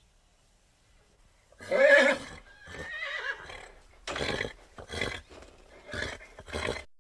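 A horse whinnying: a loud call about one and a half seconds in, then a few shorter bursts that cut off just before the end.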